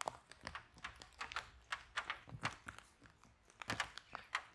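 Fireplace fire crackling, with irregular sharp pops and snaps several times a second.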